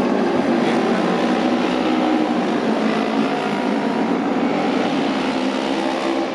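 Auto race motorcycle engines running steadily on the track, a continuous mechanical drone.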